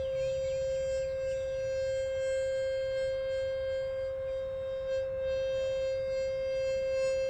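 A Love Tuner, a small 528 Hz breath-blown whistle, sounding one long steady tone with a ladder of overtones.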